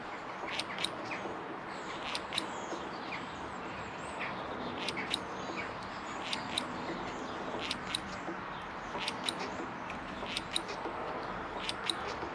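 Small birds chirping: short, sharp high calls at irregular intervals, about two a second, over a steady low hiss.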